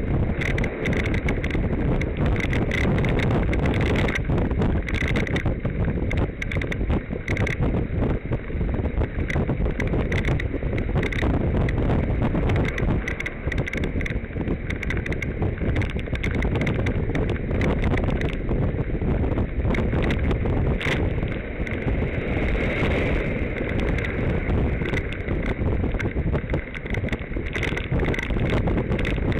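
Wind buffeting the microphone over rumble from a bicycle riding along the road, with a run of small clicks and rattles throughout.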